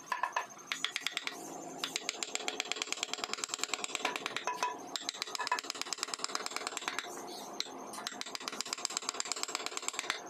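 Rapid, even tapping of a carving tool working wood, pausing briefly a few times.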